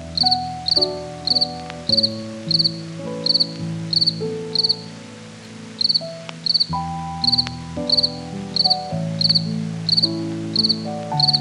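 A high, short animal chirp repeating about twice a second, with a brief pause midway, over background music of held chords.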